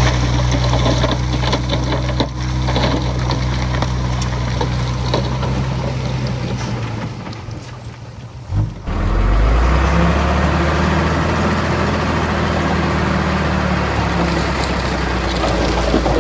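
Heavy earthmoving machinery's diesel engine running steadily under load. A little past the middle it drops away briefly, then an engine with a deeper note picks up, with a rough crunching noise over it.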